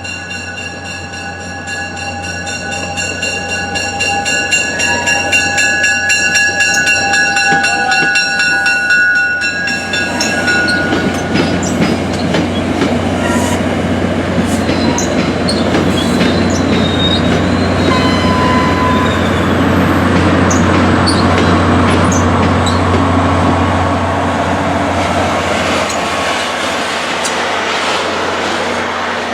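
Diesel passenger train approaching and passing close by, its engine humming low under the rumble and clatter of wheels on the rails. Several steady high tones sound over the approach and fade out about ten seconds in.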